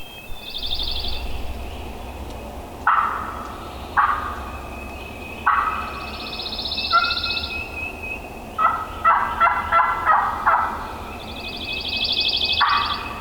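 Wild turkey gobbling several times, each gobble a fast rattling call. Between them another bird gives a high trill three times.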